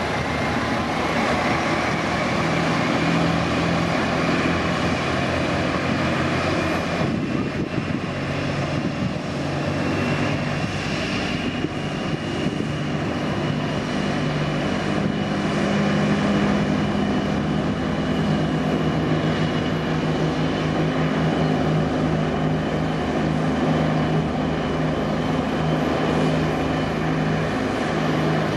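Boeing 787-8's General Electric GEnx-1B turbofan engines running, with a whine that climbs slowly in pitch over the first ten seconds or so and then holds, over a steady low drone.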